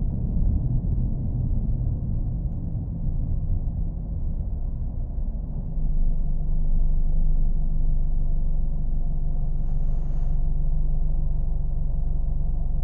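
Car engine running steadily: a low rumble with a steady hum, a little louder from about six seconds in.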